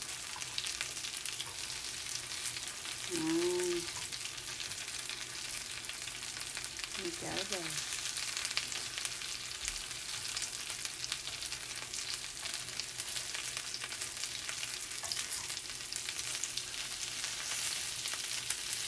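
Breaded oysters frying in hot oil in a nonstick pan: a steady crackling sizzle, with wooden chopsticks turning the pieces over. Two short pitched sounds stand out, about three and seven seconds in.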